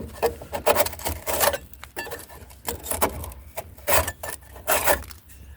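A run of about a dozen irregular scrapes and knocks, unevenly spaced.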